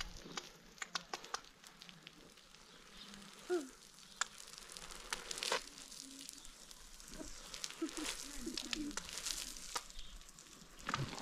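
Food frying, a steady sizzle with scattered sharp crackles and pops, plus a few short pitched sounds about a third of the way in and again past the middle.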